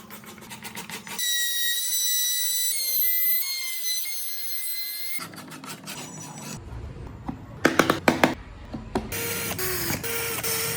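Woodworking tools at work: a small high-speed power tool whines steadily for a few seconds, its pitch shifting in small steps. Then a few sharp knocks and workshop clatter follow.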